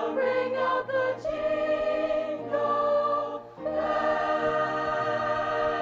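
High school show choir singing a cappella in harmony, holding a long chord near the end after a brief break about three and a half seconds in.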